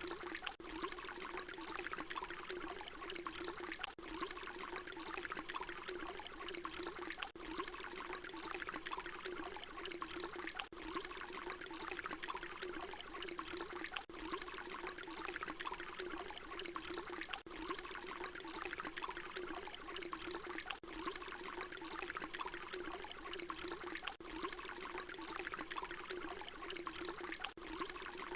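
Water pouring in a steady, continuous stream, with a brief dip about every three and a half seconds where the short recording loops.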